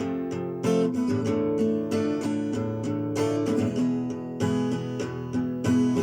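Acoustic guitar playing an instrumental introduction, strummed and picked chords with a new stroke every half second to a second.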